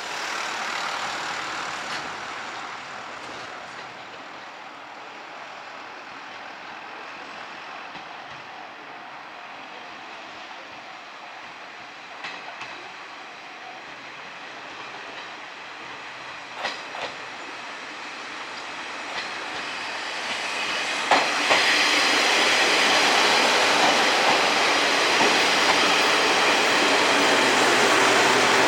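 KiHa 38 and KiHa 37 diesel railcars arriving, first faint, with a few sharp clacks over the rails; the train grows much louder from about 21 seconds in as it draws close alongside.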